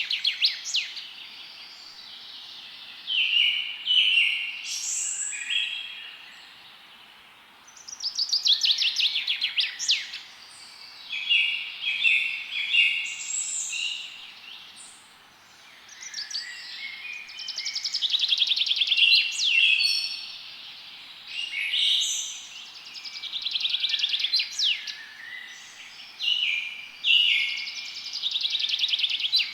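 Several songbirds singing in overlapping phrases of fast trills, rapid repeated chirps and short whistled notes, a new phrase every few seconds, over a steady background hiss.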